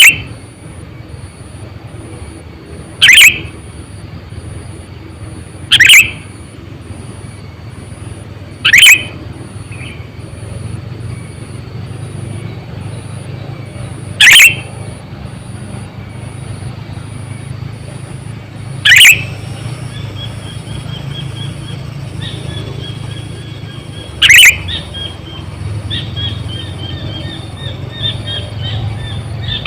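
Sooty-headed bulbul (kutilang) calling: loud, short calls, each a quick downward sweep, repeated every three to five seconds. Softer twittering joins about two-thirds of the way in, and a faint high pulsing tone repeats about twice a second throughout.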